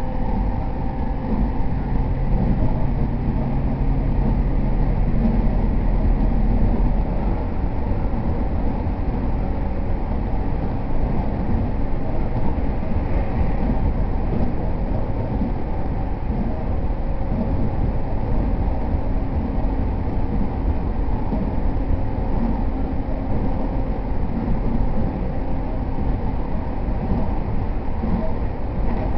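Interior running noise of a JR East E231 series 0 electric commuter train under way between stations: a steady rumble of wheels on rail. A low hum sits under it for the first several seconds, then fades.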